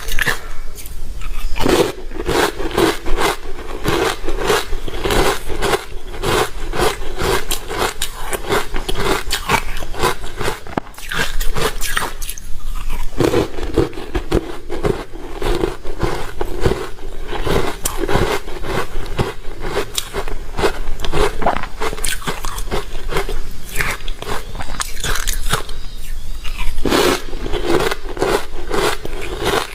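Ice being bitten and chewed close to the microphone: a rapid, continuous run of crunches, with a brief lull about eleven to thirteen seconds in.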